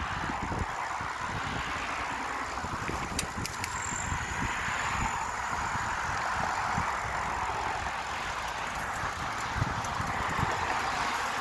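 Road traffic going by, a steady hiss of tyres that swells and fades as cars pass, with wind buffeting the microphone.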